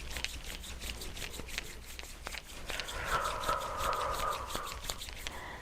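Hands rubbing and scratching over a person's body during a massage, with many quick light clicks.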